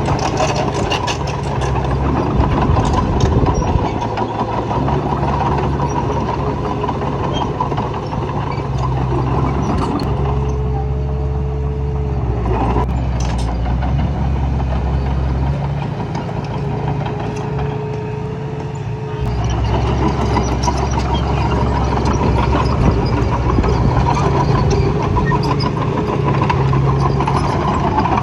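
Diesel engines of a bulldozer and dump truck running steadily at work, with a brief higher whine coming in twice.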